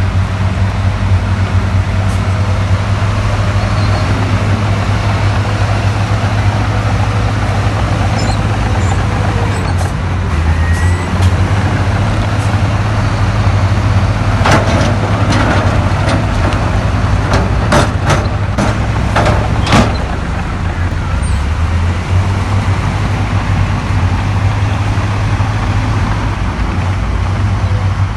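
Heavy diesel earthmoving machinery running steadily, with a cluster of sharp knocks about halfway through.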